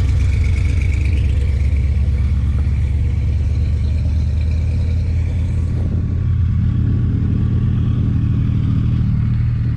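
A vehicle engine idling with a deep, steady rumble that holds an even pitch.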